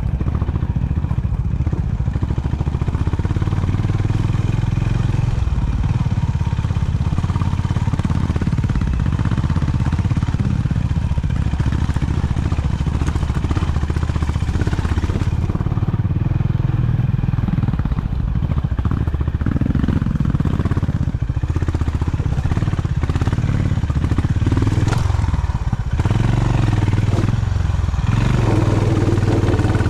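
Honda CB350 H'ness motorcycle's air-cooled single-cylinder engine running while being ridden, its revs rising and falling.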